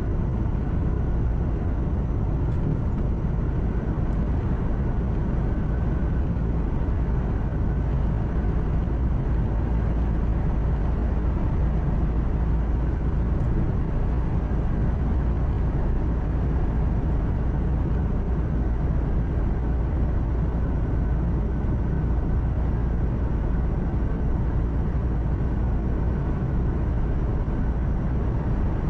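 Truck engine and road noise heard from inside the cab while cruising: a steady low drone with no change in pitch or level.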